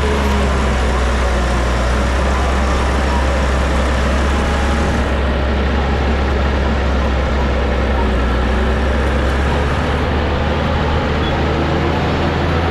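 Diesel engine of heavy earthmoving machinery running steadily, a deep constant drone.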